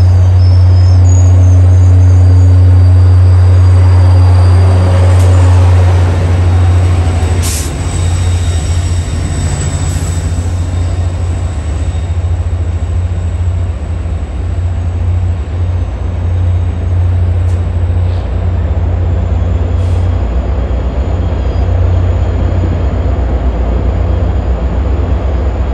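MBTA commuter rail train of bi-level coaches rolling slowly along the platform. A loud, steady deep engine drone gives way, about six seconds in, to an uneven rumble of wheels on rail. A thin high wheel squeal and a few sharp clicks sit on top.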